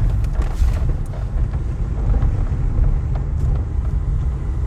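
Steady low rumble of a car driving, heard from inside the cabin, with a few light knocks and rattles.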